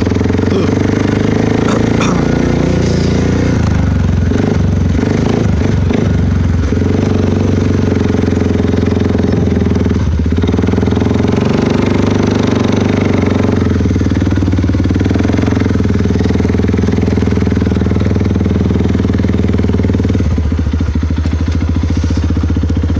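2012 Suzuki KingQuad 400 ATV's single-cylinder four-stroke engine running loud through an aftermarket HMF Penland Pro Series exhaust while being ridden, its pitch wavering with the throttle. Near the end it settles into a slower, even beat.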